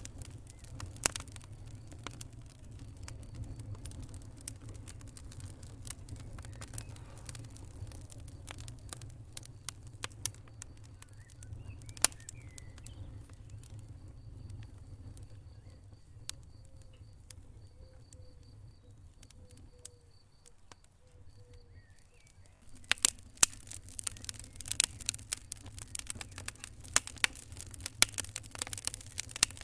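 Wood fire burning in a fireplace: scattered sharp pops and crackles over a low, steady rumble of flames. The fire quietens for a while past the middle, then bursts into dense, louder crackling about three-quarters of the way through.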